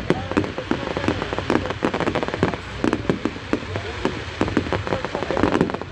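A firework display going off: dense crackling, with sharp bangs several times a second.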